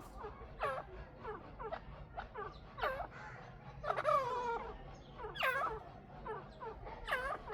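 A pair of chukar partridges calling: a run of short, pitched calls about two a second, some louder than others, with one longer, falling call about four seconds in.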